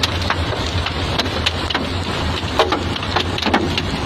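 Hailstones falling in heavy rain: irregular sharp ticks of hail hitting hard surfaces over a steady rush of rain.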